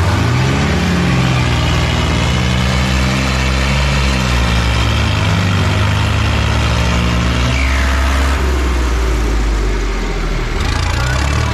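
Diesel engine of heavy farm machinery running hard, its pitch climbing in the first second and then holding. About three-quarters of the way through the pitch drops away into a rougher sound, and it picks up again near the end.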